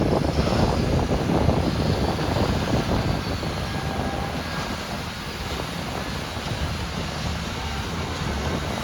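LiuGong 950E hydraulic excavator's diesel engine running steadily as the machine works, a dense low rumble that eases a little midway and then picks up again.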